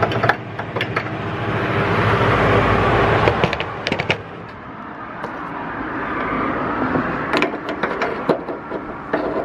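Car on the road: a steady rush of engine and road noise that swells about two to three seconds in, eases off, then rises again around six seconds. A few sharp clicks sound throughout.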